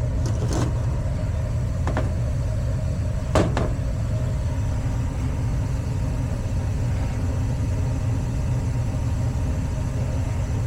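Gas furnace running steadily with its burners lit after the manifold orifices were cleaned, a low even rumble of flame and fans. A sharp click about three and a half seconds in, and lighter ones near the start.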